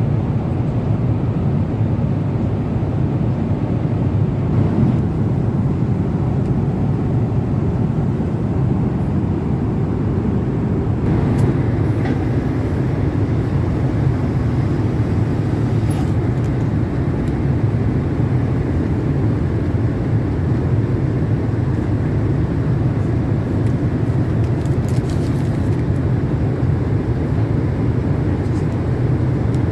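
Steady low cabin noise of a Boeing 777-300 airliner in cruise flight, engine and airflow roar heard from inside the cabin, with a few faint clicks.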